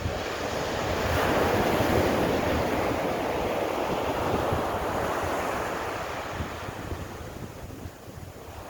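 Sea waves breaking and washing up the shore, the rush swelling in the first couple of seconds and slowly ebbing away, with wind buffeting the microphone.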